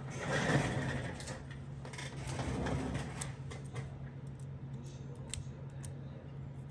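Tweezers scraping and picking at shattered screen-glass fragments inside an iPhone 14 frame, in two short bursts of scratchy rustling with small clicks, over a steady low hum.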